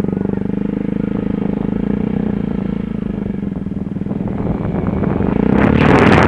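Yamaha WR125R's single-cylinder four-stroke engine running steadily with an even pulse. Near the end a loud rushing noise sets in over it, like wind on the microphone.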